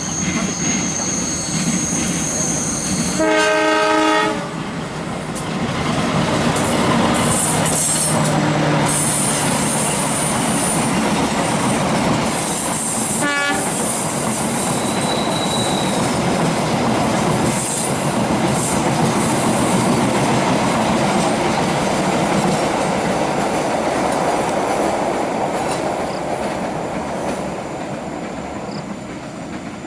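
Indonesian passenger train sounding its horn once about three seconds in, a blast of about a second, then the steady rumble and clatter of wheels on the rails as it passes. A brief high squeal comes around eight seconds and a very short horn toot comes around thirteen seconds, with the rumble fading near the end.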